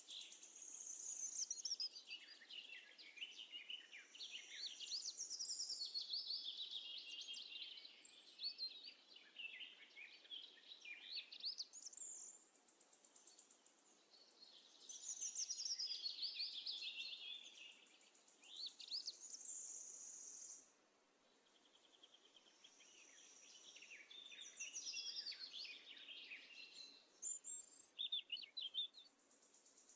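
Small birds chirping and singing in quick high-pitched trills and sweeping phrases, with a short lull about two-thirds of the way through.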